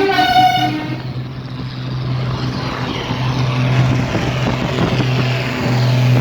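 A vehicle horn sounds and cuts off about a second in, then tractor engines run steadily as the tractors drive past, growing louder near the end.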